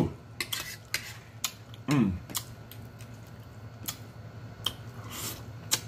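Close-miked eating: wet mouth clicks and lip-smacks of someone chewing, with a brief falling 'mm' hum of enjoyment about two seconds in.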